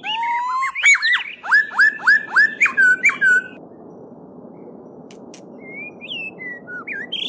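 A songbird sings a loud phrase of quick, repeated down-slurred whistled notes, about seven in a row, over the steady rush of a babbling stream. After about three and a half seconds the song stops and only the stream goes on, with a few softer bird calls near the end.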